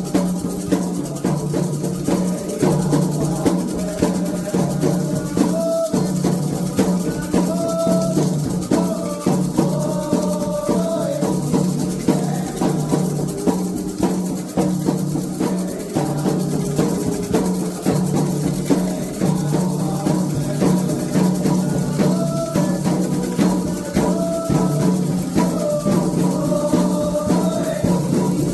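Candomblé ritual music: hand drums beating a steady rhythm with a shaker rattling along.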